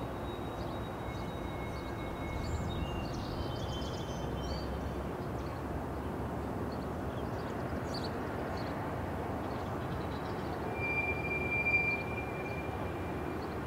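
Diesel-hauled CN freight train approaching slowly, with a steady low rumble from the locomotive and rolling cars. Thin high wheel squeals come and go as it crosses the switches, the loudest about eleven seconds in.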